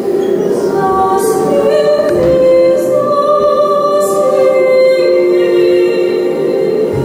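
Slow music of long held notes in a woman's singing range, sung without words, with the pitch moving from note to note every second or so. A few short soft hissing strokes sound over it.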